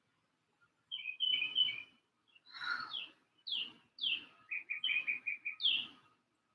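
A songbird singing several short phrases: whistled notes that slide down in pitch, and near the end a quick run of repeated notes.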